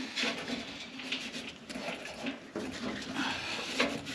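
Cleaning dust off the wiring and surfaces inside a gas furnace: a run of short, irregular rustling and rubbing strokes.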